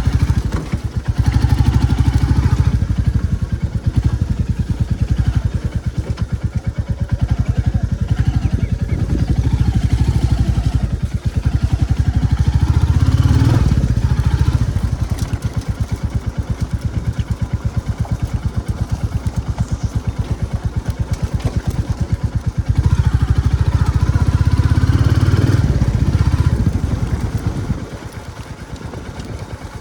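Royal Enfield Classic 350's single-cylinder engine thumping as the motorcycle is ridden, rising in pitch and loudness under throttle several times and easing off between. It drops to a lower, quieter note near the end.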